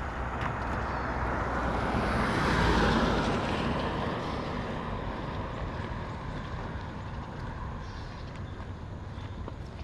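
A car driving past on a wet road, its tyre hiss swelling to a peak about three seconds in and then slowly fading away.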